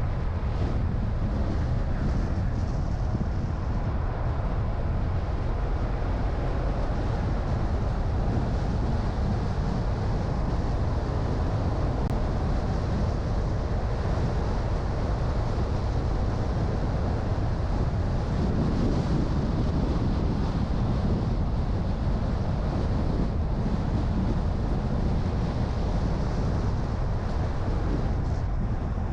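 Steady road and wind noise from a car driving, a constant low rumble with a slight swell about two-thirds of the way through.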